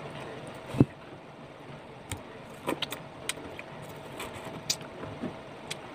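Biting into and chewing slices of sour green mango close to the microphone: scattered wet chewing clicks and mouth smacks, with a single low thump about a second in, over a faint steady hum.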